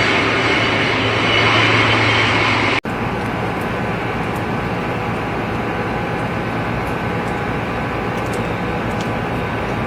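Jet airliner engines running loud and steady, cut off abruptly about three seconds in. After that comes a quieter, steady rumbling hiss with a few faint ticks.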